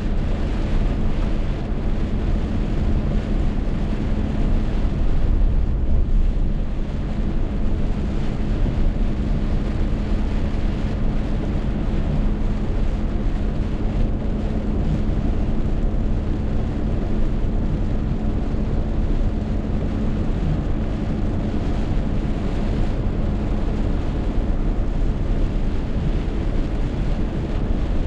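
Rainstorm: a steady roar of wind and rain, with wind buffeting the microphone and a low steady hum underneath.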